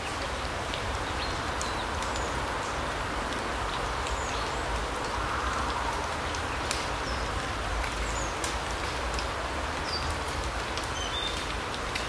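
Forest ambience: a steady soft rushing, with short high bird chirps scattered through it and occasional light ticks.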